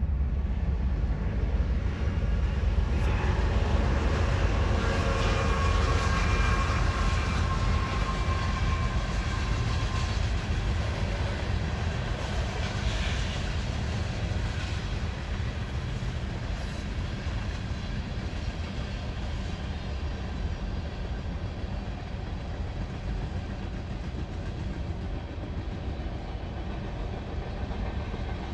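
Train of railcars rolling past with a steady low rumble. From about three to ten seconds in, thin high-pitched tones ring over the rumble, and the sound eases slightly in the second half.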